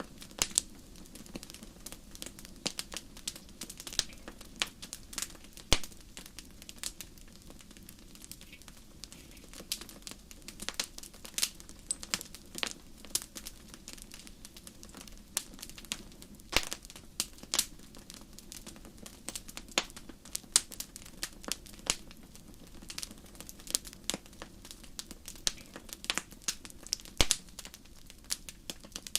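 Wood fire crackling in a fireplace: a dense, irregular run of sharp pops and snaps over a steady low hiss.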